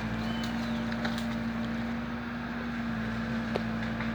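A motor running steadily with an unchanging low hum, with a faint click about three and a half seconds in.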